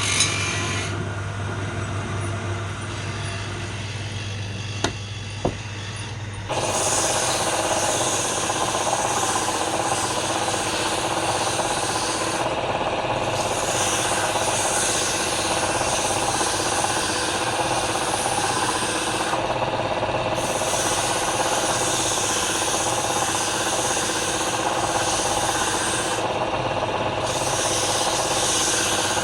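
Woodturning lathe with a tool or abrasive scraping against a spinning piece of palm wood. For the first six seconds there is a steady hum with two sharp clicks. Then the scraping comes in louder and continues, easing off briefly about every seven seconds.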